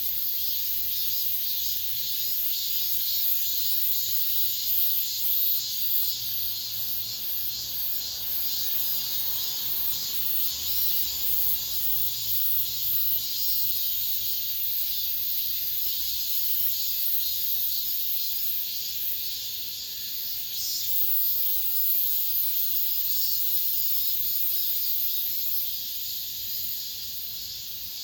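Cicadas singing: a continuous shrill, high buzz that pulses rapidly through the first half and then evens out.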